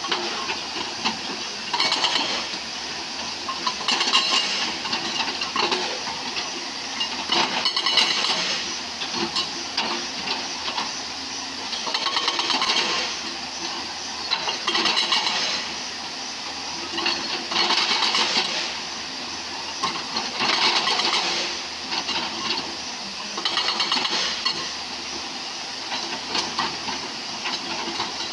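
JCB excavator working among river stones: the machine runs steadily, with hissing, grating bursts every two to three seconds and a few sharp knocks.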